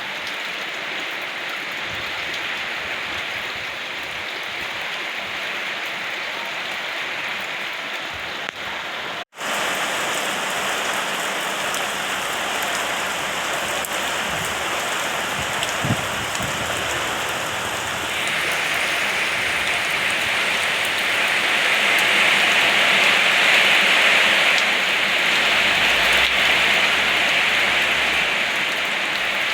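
Steady rain falling, an even hiss of many drops. The sound cuts out for an instant about nine seconds in, and the rain gets heavier from about two-thirds of the way through.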